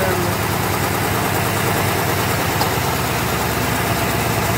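Ford 4.6-litre two-valve V8 idling through newly fitted long-tube headers, heard close from under the hood as a steady, fast, even run of exhaust pulses.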